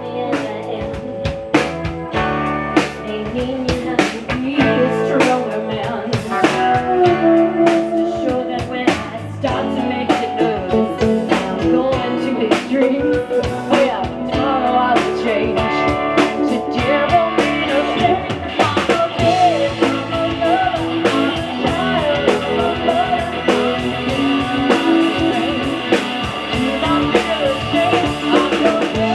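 Band music with guitar and a drum kit, and a singing voice.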